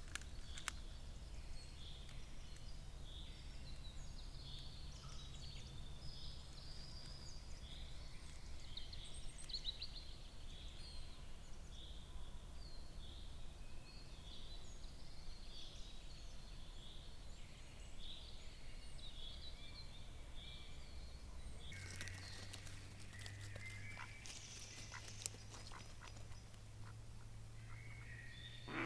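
Several small birds calling in short, repeated phrases over a steady low hum. About three quarters of the way through, a run of sharp clicks and rustling sets in.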